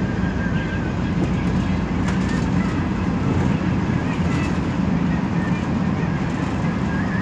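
Steady engine and road noise inside a moving metropolitan express bus, with a strong low hum and faint high squeaks now and then.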